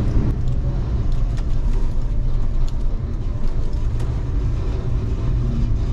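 Suzuki Alto kei car's 660cc engine running at a steady low drone with road noise, heard from inside the small car while driving.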